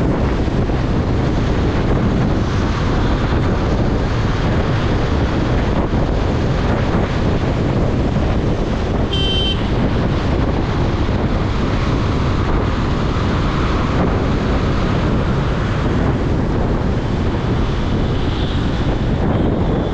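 Wind rushing over the microphone of a moving KTM Duke 250 single-cylinder motorcycle, with the engine and road noise steady underneath. A short high-pitched beep sounds about nine seconds in.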